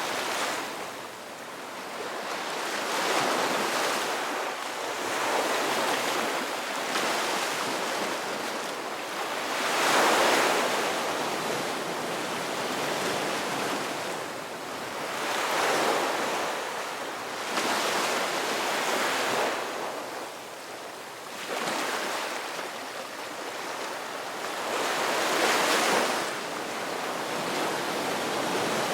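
Ocean waves breaking and washing on the shore in a continuous surf, swelling and falling back every few seconds, the loudest break about ten seconds in.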